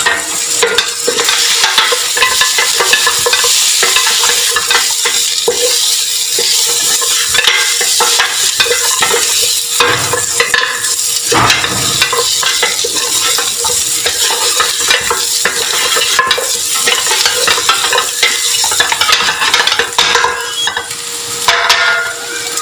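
A wooden spatula stirs and scrapes lamb trotters around a steel pot as they fry in oil with onion, garlic-ginger paste and turmeric, sizzling steadily, with many small scrapes and knocks against the pot. This is the bhuna stage, when the meat and spices are browned before water goes in.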